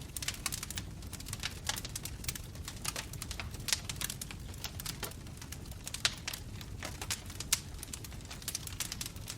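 Wood fire crackling: a steady low rush of burning with dense, irregular pops and snaps, a few sharper ones standing out.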